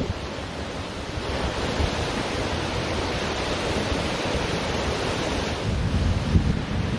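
Ocean surf washing onto a beach: a steady rush of breaking waves that swells and eases back over a few seconds, with wind rumbling on the microphone, strongest near the end.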